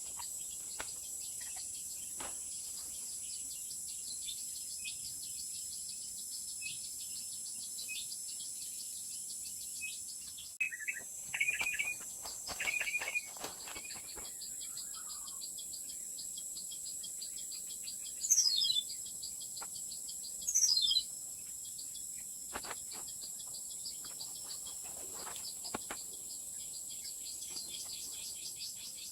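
Steady high-pitched drone of insects, with birds calling over it: a few short chirps about a third of the way in, then two quick falling whistles, a couple of seconds apart, which are the loudest sounds.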